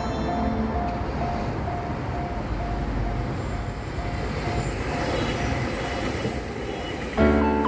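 A train running past a level crossing, its wheels and cars making a steady rumble. The crossing's warning bell rings about twice a second through the first half and fades out.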